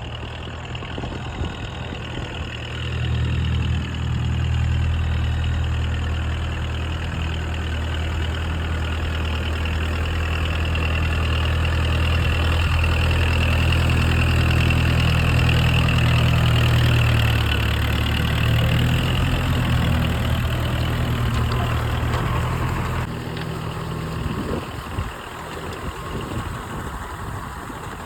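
Kubota tractor's diesel engine running as the tractor works through mud. It has a steady low drone that gets louder about three seconds in and falls off suddenly near the end.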